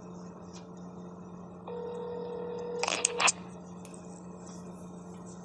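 Telephone line after an automated greeting: one ring of ringback tone lasting about a second and a half, cut off by a few sharp clicks, over a steady low line hum.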